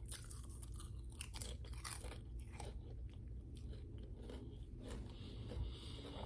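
Close-miked chewing of potato chips: a quick irregular run of crisp crunches.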